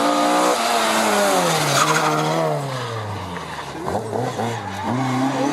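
Rally car engine at high revs. Its pitch falls over a second or two as it slows, then climbs again near the end as it accelerates.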